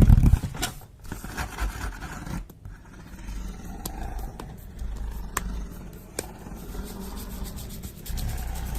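Close-up scratching and rubbing on a surface, made for ASMR. It opens with a loud low thump, and three sharp clicks fall around the middle.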